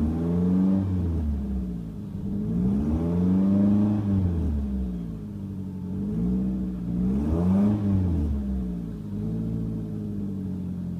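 2005 Nissan Altima's 2.5-litre four-cylinder engine revved four times, each rev rising and falling back. After the fourth rev it settles to a steady idle near the end.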